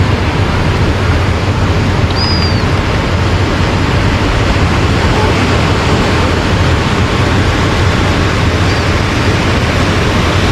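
Ocean surf and wind on the microphone in a steady rushing noise, with a brief high chirp about two seconds in.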